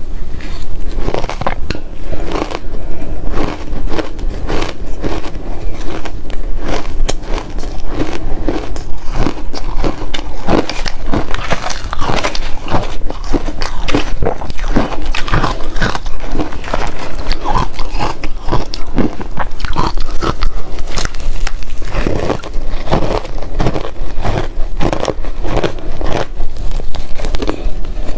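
Close-miked biting and chewing of frozen matcha ice: dense, irregular sharp cracks and crunches following one another rapidly.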